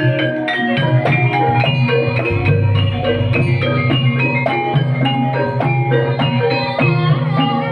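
Gamelan ensemble playing Banyumasan ebeg accompaniment: interlocking struck notes on mallet-played pitched instruments in a steady rhythm over a low drum.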